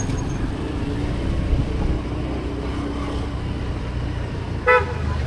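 Road vehicle noise: a steady low engine and road rumble, with one short horn beep near the end.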